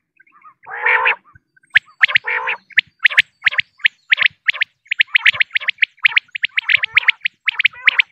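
Common quail calling. A couple of short, harsh rasping calls come in the first few seconds, then a rapid run of sharp, high, clipped notes, several a second, that keeps on.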